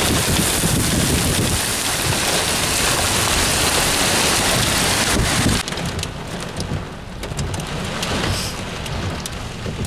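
Heavy wind-driven rain in a severe thunderstorm, a loud steady downpour. About five and a half seconds in it drops suddenly to a quieter downpour with scattered drop ticks.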